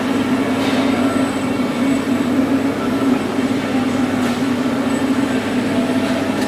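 Juaristi MDR 130 CNC boring mill running, a steady low hum with a faint high whine over it.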